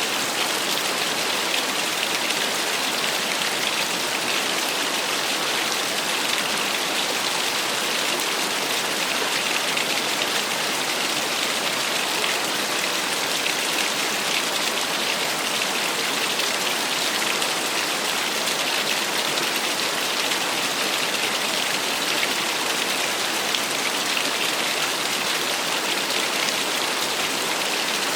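Small waterfall splashing steadily, an even hiss of falling water with no pauses or changes.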